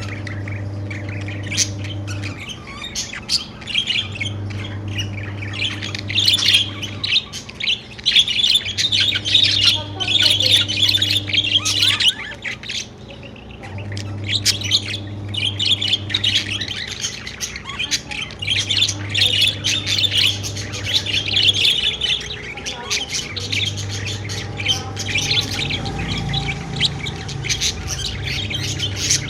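Budgerigars chirping and squawking in a dense, continuous chatter of short high calls, with brief lulls about halfway and again later. A low hum switches on and off every few seconds underneath.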